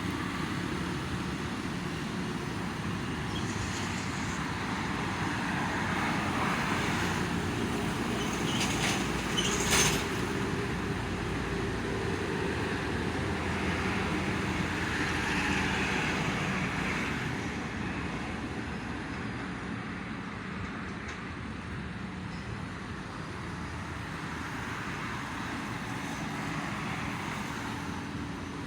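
Steady toll-road traffic, vehicles passing in slow swells with a low engine rumble underneath. There is a sharp knock a little under ten seconds in.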